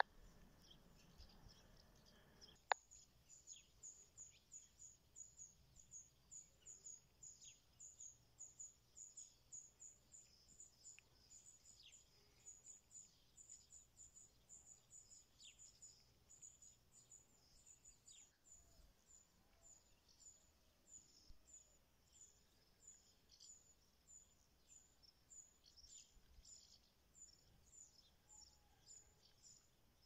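Faint small-bird calls: one bird repeats a short, high, thin note two or three times a second, with scattered short falling chirps from other birds. A single sharp click sounds a couple of seconds in.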